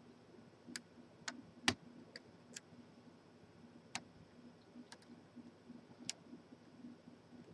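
Faint, irregular sharp clicks of lock-picking tools working in a padlock, about a dozen, with the strongest about a second and a half in.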